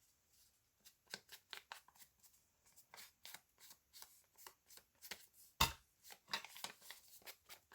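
Ink being dabbed onto paper with an ink pad or blending tool: a run of quick, light, irregular taps and scuffs on paper, with one louder knock a little past halfway.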